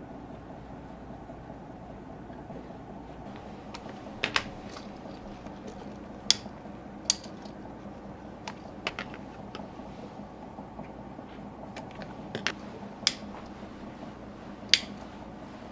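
Sharp light clicks and taps of hand tools during shoe sole repair, about eight at irregular intervals from a few seconds in, over a steady low hum.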